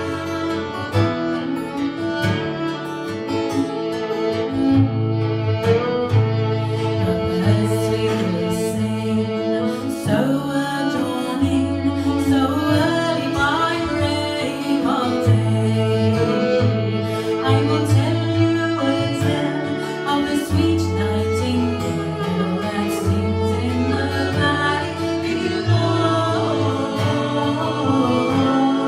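A folk trio playing and singing, with string instruments.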